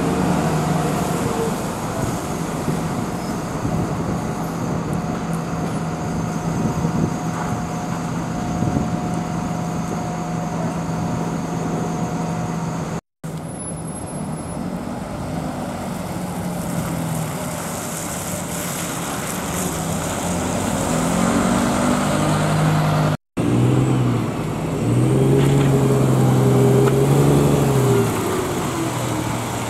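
Vehicle and traffic noise from public transport, across three clips cut together. In the last clip a vehicle's drive hum rises in pitch in steps as it pulls away, holds, then drops near the end.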